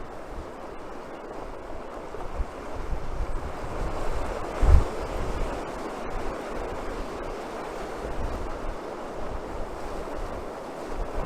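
Atlantic surf breaking steadily on the shore, with gusts of wind buffeting the microphone; the strongest gust comes about halfway through.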